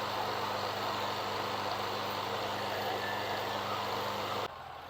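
Well-drilling rig's engine running steadily, a constant low drone with a broad hiss over it, which cuts off abruptly near the end.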